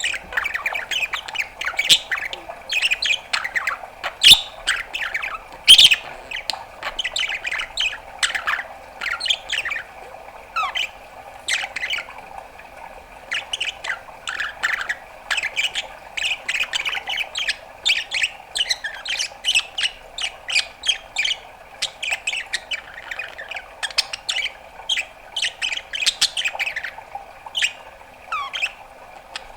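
A budgerigar chattering without a break: a rapid run of short chirps, squawks and clicks, with a few louder sharp clicks in the first six seconds.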